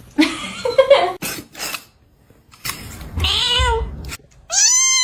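A cat meowing: a drawn-out call about three seconds in, then a louder, higher arching meow near the end, after some short rustling noises at the start.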